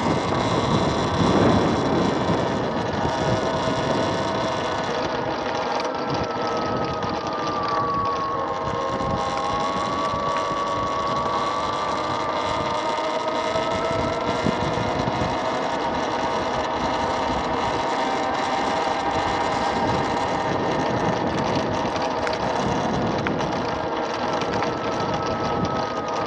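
Electric motor-scooter, an MX Sting, riding along with its motor whining in several steady tones whose pitch slowly falls and rises with road speed, over wind noise on the microphone.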